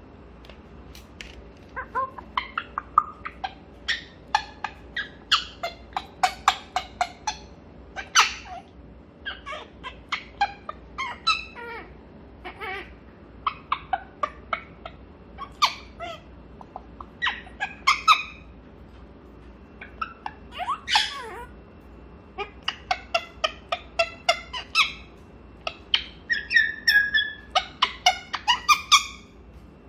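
African grey parrot chattering: a long string of short clicks, chirps, squeaks and whistles, coming in quick clusters, with a denser run of rapid notes near the end.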